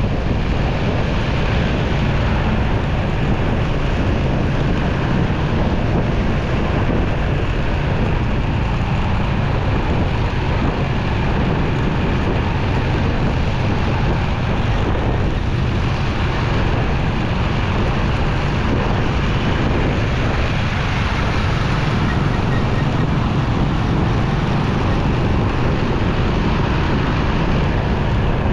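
Steady rush of wind over the microphone and road noise from a motorcycle riding in traffic, with no distinct events.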